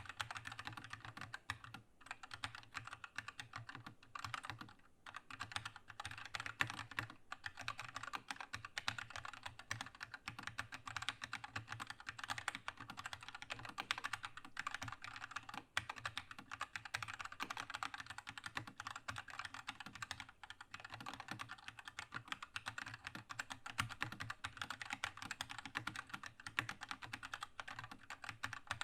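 Keychron K2 mechanical keyboard with red linear switches being typed on fast and steadily, a dense stream of key clacks with a few brief pauses.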